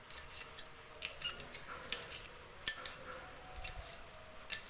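Green chillies being cut finely: short, sharp cutting clicks, irregularly spaced about one every half second to a second.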